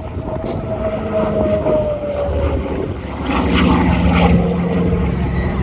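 Propeller aircraft engine flying past: its tone slides down in pitch over the first two seconds, then the engine grows louder about three seconds in.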